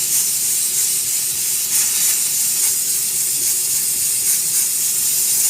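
Loud, steady hiss of a jet blowing from a workshop tool, used while cleaning and prepping the sneakers for sole separation.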